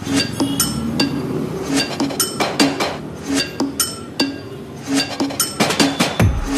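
Rhythmic metallic clinks, several a second, each ringing briefly at the same few pitches.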